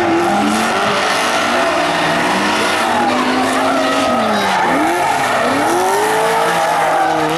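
Drift car engine revving up and down again and again while drifting, over the hiss and squeal of sliding tyres.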